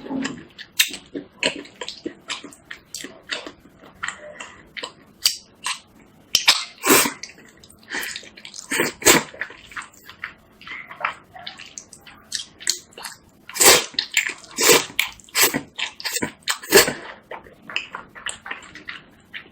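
Close-miked eating of instant noodles: irregular wet slurps, chewing and mouth smacks, several a second, with a few louder slurps scattered through.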